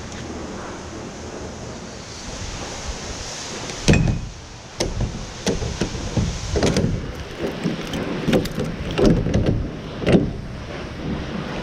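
A run of knocks, clunks and rattles starting about four seconds in, the loudest near the start and again near the end, over a steady rushing noise.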